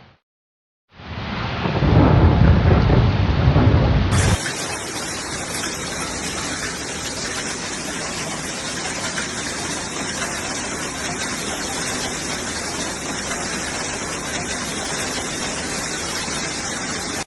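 A loud low rumble of thunder over pouring rain. About four seconds in, it changes abruptly to the steady hiss of a heavy downpour.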